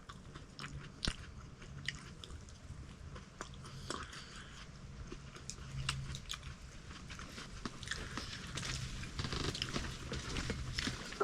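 A person eating noodles from a self-heating hot pot: chewing and biting, with scattered sharp clicks.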